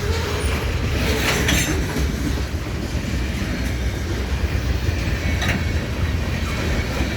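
Freight cars of a manifest freight train rolling past, a steady rumble of steel wheels on the rails, with a few sharp clanks about a second in and again near the end.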